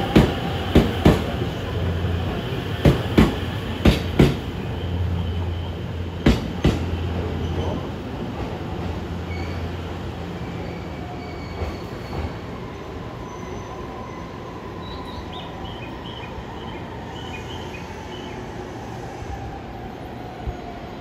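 A JR East E257 series electric train pulls into the platform and brakes to a stop. Its wheels clack sharply over rail joints in the first seven seconds, and after that a thin whine slowly falls in pitch as it slows.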